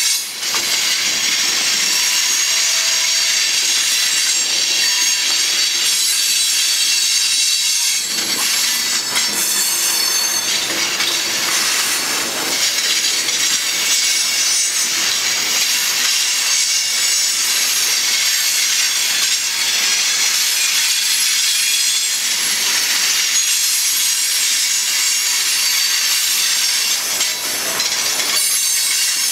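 Coal hopper cars of a freight train rolling past, their steel wheels on the rail making a steady, high hiss and rub.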